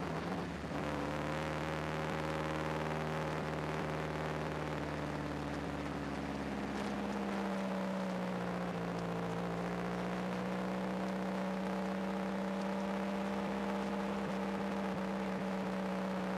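Turbocharged race car engine running steadily at low revs while the car rolls slowly, its pitch dipping slightly about eight seconds in and then holding steady.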